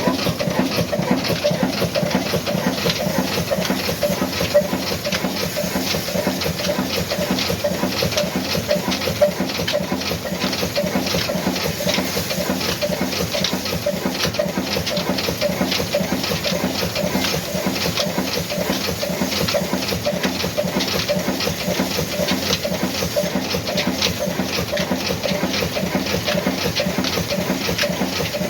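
Old Ruston diesel engine running steadily, a fast even beat with no change in speed.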